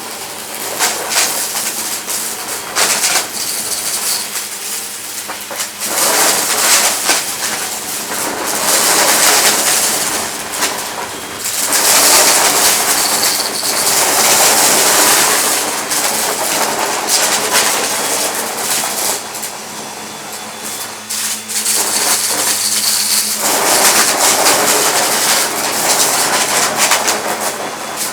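Vacuum cleaner running with a steady motor hum while it sucks up small hard debris, which rattles and clatters through it, swelling louder in stretches of a few seconds.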